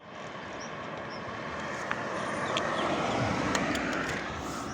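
A road vehicle passing close by: a rush of engine and tyre noise that swells to a peak a little after halfway and then fades.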